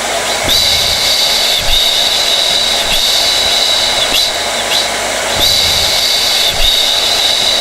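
Hair dryer running steadily: a rushing fan noise with a high whine on top that briefly dips several times.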